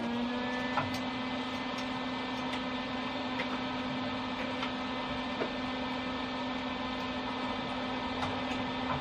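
Welder running with a steady electrical hum and hiss, with scattered faint crackles.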